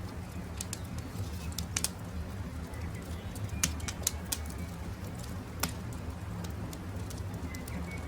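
Campfire burning, with irregular sharp crackles and pops over a steady low rumble, and a few faint bird chirps near the end.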